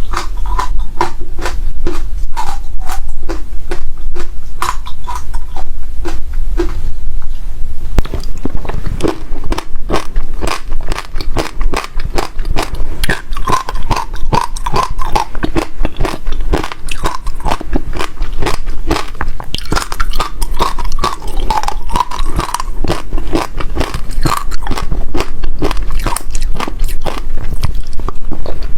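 Passion fruit seeds being bitten and chewed close to the microphone, a dense run of sharp crunching cracks.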